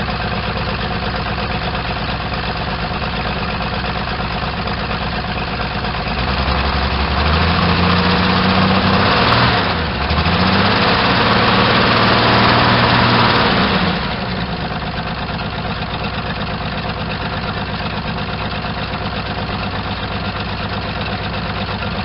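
AMC 232 inline-six engine idling, then revved up twice in quick succession, about seven seconds in total, before settling back to idle. The engine is suffering heavy blow-by and oil smoke, caused by broken pistons in cylinders 1 and 2.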